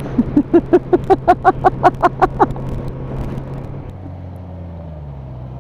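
Motorcycle engine running steadily, its note dropping about three and a half seconds in as the bike slows. Over the first two and a half seconds there is a loud, quick run of about a dozen short pitched pulses, about five a second.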